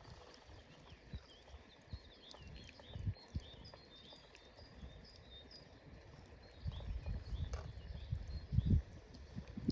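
Small birds chirping in the background, with a few dull knocks and thumps of handling, the loudest near the end.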